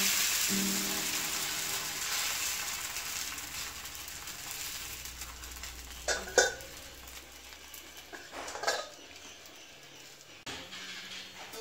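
Dosa batter sizzling on a hot cast-iron tawa, the hiss fading gradually. About six seconds in, a steel ladle clinks against the steel batter bowl, and near nine seconds a steel lid clanks down over the tawa.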